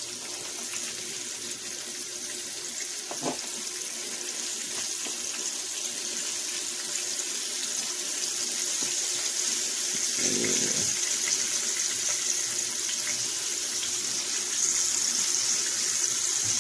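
Flour-coated chicken liver frying in olive oil: a steady high sizzle that grows gradually louder, with a light knock about three seconds in and a brief thump around ten seconds in.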